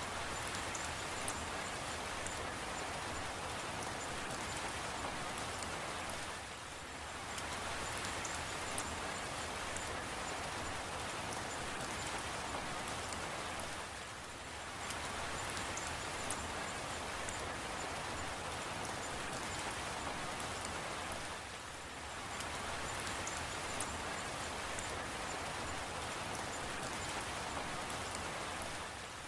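Steady rainfall, an even hiss of many drops with fine individual ticks of drops hitting, easing off briefly about every seven and a half seconds.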